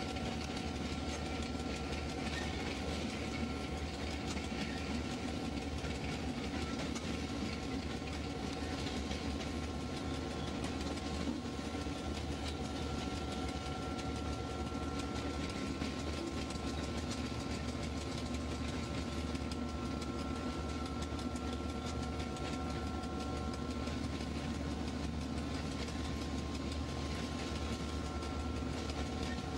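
Train running steadily, heard from inside the locomotive cab: a constant low rumble with a few thin steady whining tones over it.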